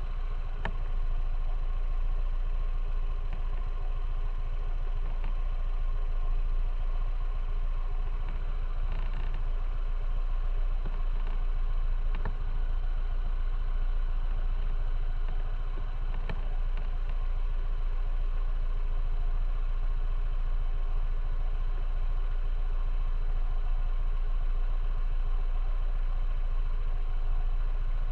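Motorcycle engine running at a steady, unchanging speed, with a strong low rumble and a few faint ticks.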